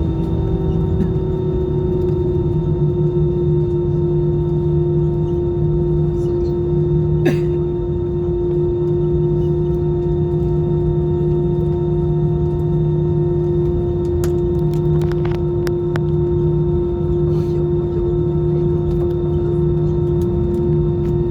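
Airbus A320 jet engines running with a steady hum: one clear steady tone over a low rumble. A single sharp click sounds about seven seconds in.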